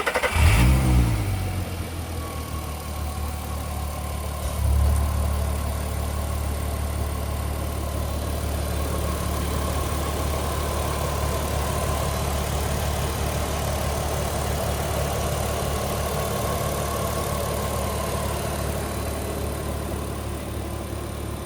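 Audi TT 3.2's VR6 engine flaring briefly in the first second after starting, then settling into a steady idle.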